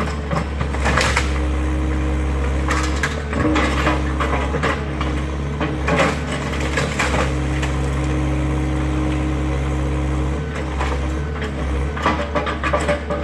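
Excavator's engine running steadily while wooden garage framing is crushed, cracking and splintering, with repeated sharp cracks and knocks.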